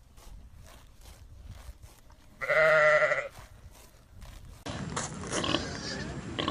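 A single loud, wavering bleat of a farm animal, lasting about a second, over faint regular clicking at about three a second. Near the end a different, busier recording of animal noises cuts in.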